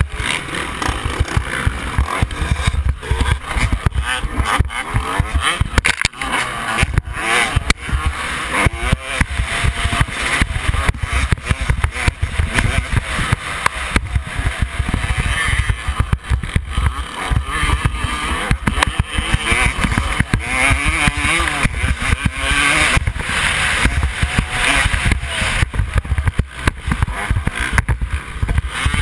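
Yamaha YZ250 two-stroke motocross bike engine revving hard and falling off again and again under racing load, over a heavy low rumble and irregular knocks.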